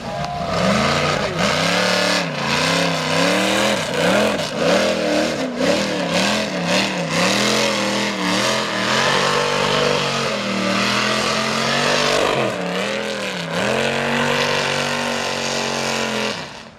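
Mega truck engine revving hard under load, its pitch rising and falling over and over as the throttle is pumped, with a longer steady pull near the end before it drops off suddenly.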